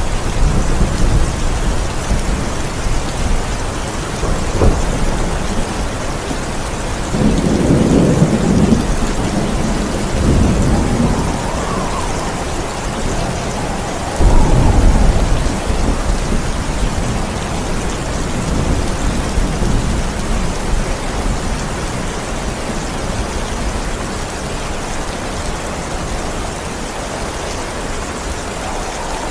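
Steady heavy rain with rolling thunder: a crack right at the start, a long low rumble about seven seconds in, and a sharp loud thunderclap about halfway through that rumbles away over several seconds.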